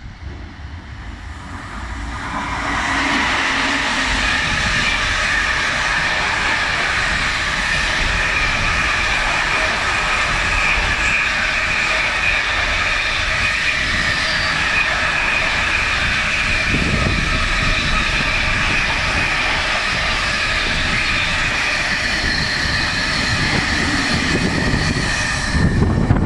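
Double-headed container freight train running through the station close by at speed: the sound swells over the first couple of seconds as the locomotives arrive, then holds as a steady loud rush of wagon wheels on the rails, with a steady high ringing tone over it.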